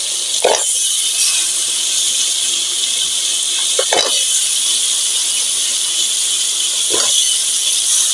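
Onion-tomato masala sizzling steadily in a karahi as potatoes, carrots and peas are added. Three short, sharper sounds stand out, about three seconds apart.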